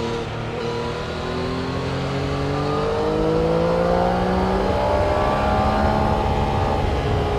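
Several vehicle engines accelerating together on a race track, their pitches rising slowly and growing louder, loudest a little past the middle.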